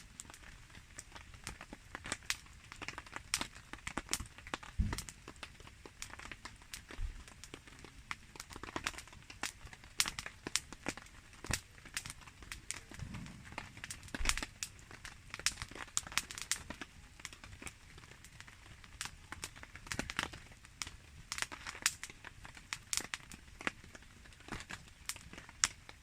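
Wood campfire crackling and popping in many irregular sharp snaps, over a faint steady patter of rain.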